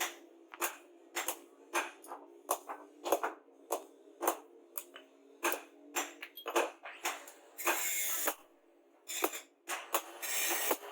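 Hand tool work on a rusty knife: a run of sharp taps, about two a second, then two short scraping strokes near the end.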